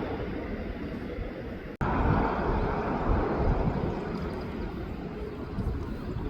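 Jet airliner engine noise at an airport: a steady rumble. It cuts out for an instant about two seconds in, then returns louder.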